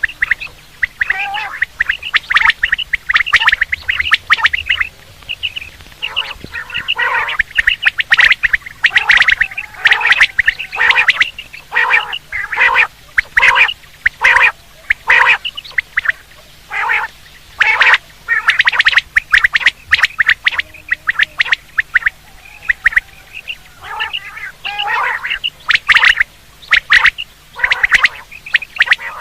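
Quail (batair) calling: rapid runs of short, sharp notes, repeated over and over in loud bursts with a short lull past the middle. This is a quail call recording of the kind played to lure quail for hunting.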